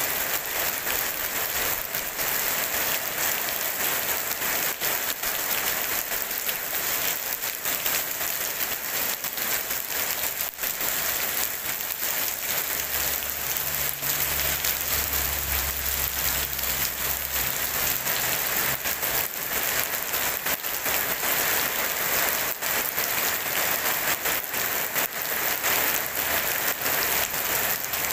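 Steady rain falling on wet paved ground: a dense, even hiss of drops with no thunder. A low hum comes in for several seconds around the middle.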